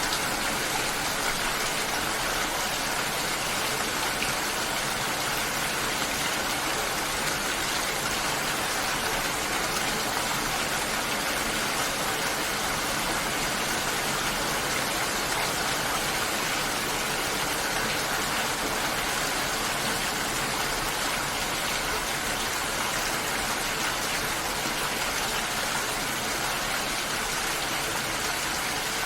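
Steady, dense hiss of water, even and unchanging, with no distinct drops, splashes or other events standing out.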